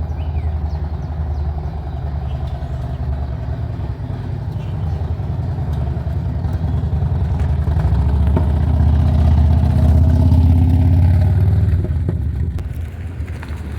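Harley-Davidson trike's V-twin engine running under way. It swells louder with the pitch climbing about two-thirds of the way in, then eases off near the end.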